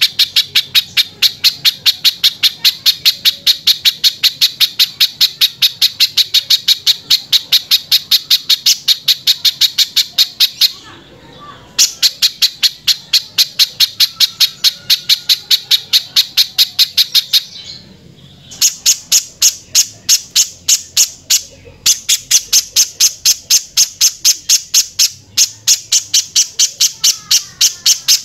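Spiderhunter calling in a long, harsh series of short, evenly repeated notes, about five a second, broken by a few brief pauses.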